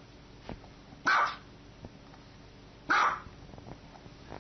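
Small dog barking twice, two short single barks about two seconds apart.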